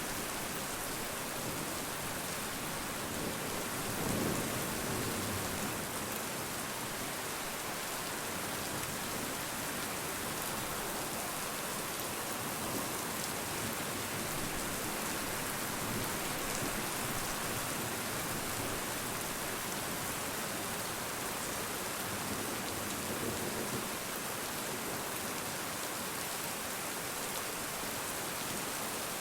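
Steady, dense rainfall hissing evenly, with a brief low swell about four seconds in.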